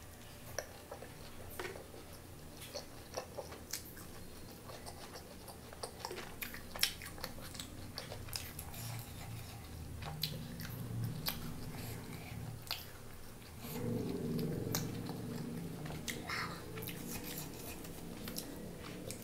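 Close-up mouth sounds of eating chicken curry and roti by hand: chewing with many small wet clicks and smacks. A louder low sound rises for about two seconds about two-thirds of the way through.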